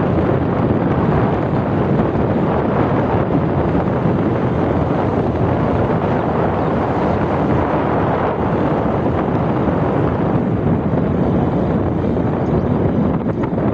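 Steady wind rush on the microphone of a moving motorcycle, with riding noise underneath.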